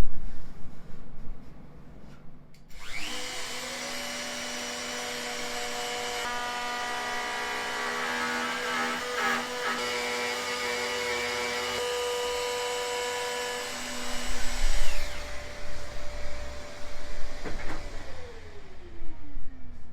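An electric power tool's motor spins up with a rising whine about three seconds in and runs at steady speed for about fifteen seconds. In the middle, extra tones and rubbing noise come and go as it works the wood. It is switched off near the end and winds down with a falling whine, while louder irregular knocking and handling noise comes in over the last few seconds.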